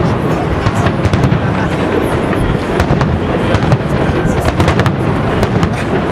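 Aerial fireworks going off in quick succession: a continuous rumble of bursts with many sharp crackling pops throughout.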